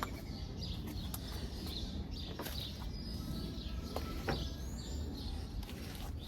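Small birds chirping now and then over a steady low background rumble, with a few faint clicks.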